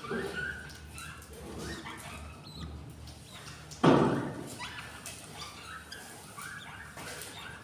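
Budgerigars chirping in short calls, with one sudden loud thump about four seconds in.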